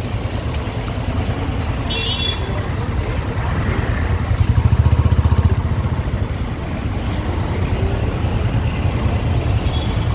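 Motorcycle engine running while riding in traffic, a steady low pulsing rumble that swells briefly around the middle. A short vehicle horn toot about two seconds in.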